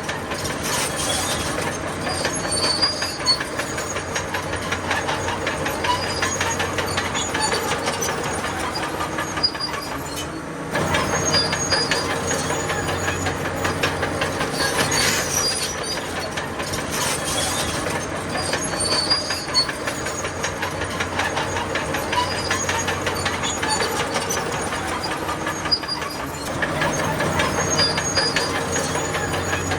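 Bulldozer working: its diesel engine runs under load while the steel crawler tracks clank and squeal. The sound grows louder about eleven seconds in and again near the end.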